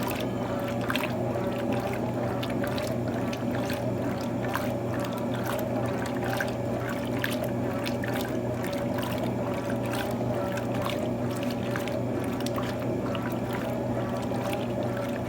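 Electrolux TOP8A top-loading washing machine running: a steady motor hum with water sloshing and splashing in the drum, scattered with irregular small knocks.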